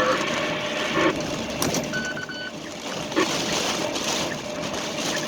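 Steady noise inside a pickup truck cabin, with a short electronic beep about two seconds in.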